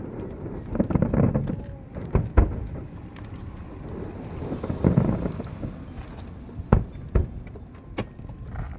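Fireworks display: a handful of sharp bangs from shells bursting, spread out with gaps, over a low rumbling background.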